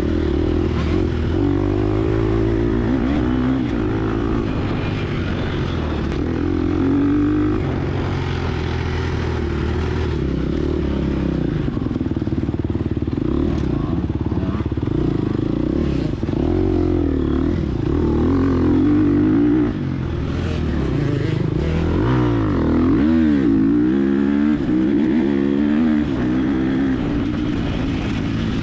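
Gas Gas EX250F four-stroke dirt bike engine revving up and down over and over as it is ridden hard.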